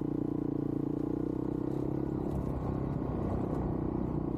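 Dual-sport motorcycle engine running at low revs, a steady low drone that turns more uneven after about two seconds.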